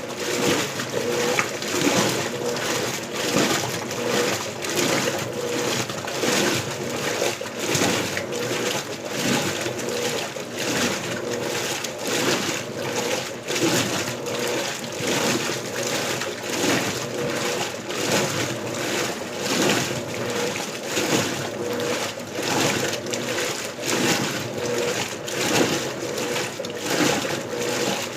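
Electrolux LBU15 top-loading washing machine agitating on turbo agitation, water and clothes sloshing in the tub in an even back-and-forth rhythm.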